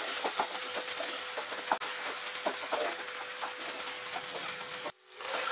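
Beef in thick gravy sizzling and crackling in a nonstick pan as it fries down and is stirred with a wooden spatula, the gravy's water cooking off. A faint steady tone runs underneath, and the sound cuts out briefly near the end.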